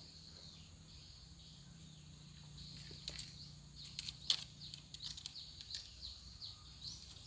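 Birds calling in forest, a run of short, high chirps repeated over and over, with a few sharp clicks about three to four seconds in.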